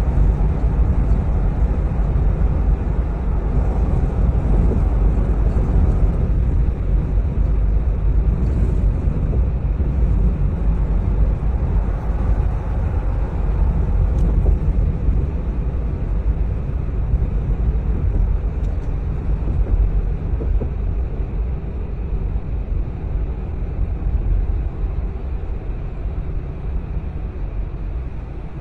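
A car driving along, with a steady low rumble of engine and road noise that eases slightly about six seconds in.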